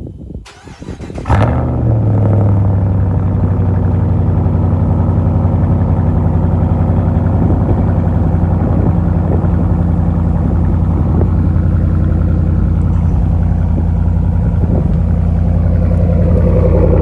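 Ram pickup truck's engine cold-starting: a brief crank, it catches about a second in with a short flare of revs, then settles into a loud, steady cold idle.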